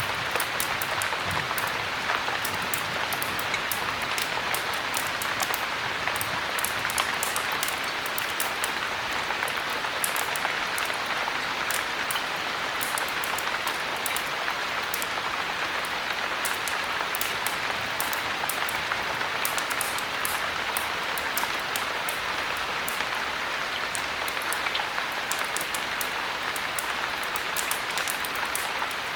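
Heavy rain falling steadily, an even hiss with many small sharp ticks scattered throughout.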